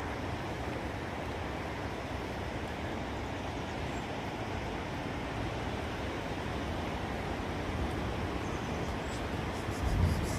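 Steady rushing wind of a snowstorm, with a low rumble of gusts on the microphone, and a short low thump near the end.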